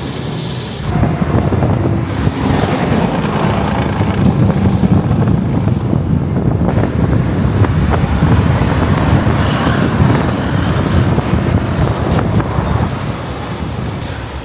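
Road traffic: heavy vehicles' engines and tyres running by close to the roadside, a steady loud rumble.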